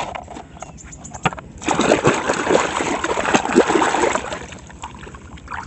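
Water splashing and sloshing as a plastic toy vehicle is washed in a tub, with a few light knocks; it gets louder about one and a half seconds in and dies away near the end.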